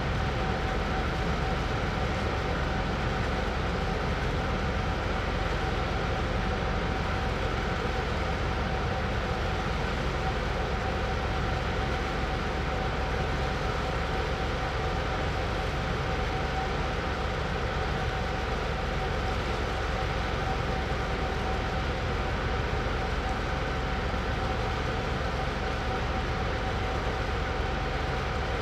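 Boeing 929 Jetfoil high-speed ferry's gas turbines running at speed: a steady whine over a low rumble.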